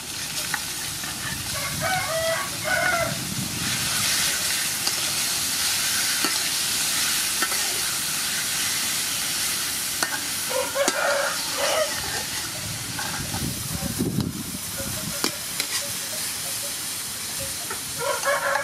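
Sliced beef sizzling as it fries in hot oil in a wok, stirred with a metal spatula that taps and scrapes against the pan. A rooster crows twice, about two seconds in and again about eleven seconds in.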